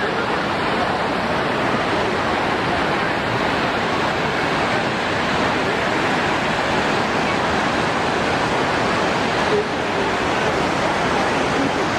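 Steady, loud rush of water, a continuous noise with no breaks or swells.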